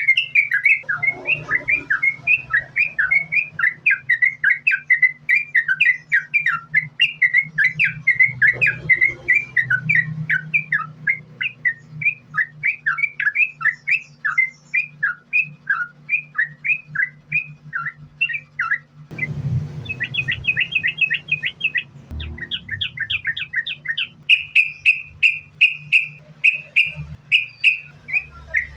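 Yellow-vented bulbul singing a continuous run of short, quickly repeated chattering notes. About two-thirds of the way through, the song changes to a faster, higher, more even series of notes. A faint steady low hum lies beneath.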